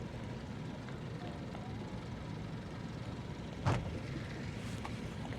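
Towboat's twin 200 hp Suzuki outboard motors running steadily under way, with a single sharp knock about two-thirds of the way through.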